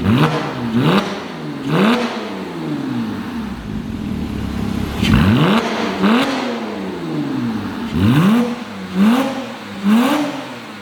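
Porsche 987's flat-six engine revved in about eight quick blips through a new Spyder Performance valved cat-back sports exhaust, the pitch rising and falling each time, with a steadier stretch in the middle.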